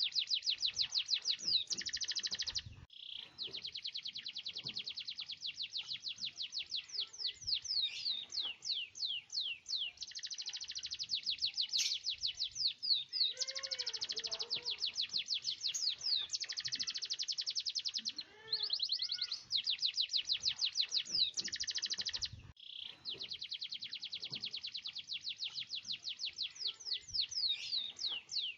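Domestic canary singing long rolling trills of rapid repeated high notes, broken by brief pauses every few seconds.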